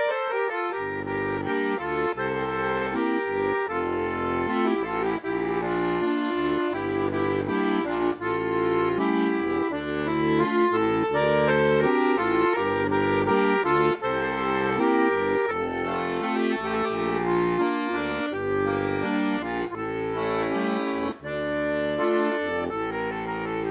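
Accordion playing a folk tune, a melody over bass notes and chords that change in a steady rhythm, with a brief pause near the end.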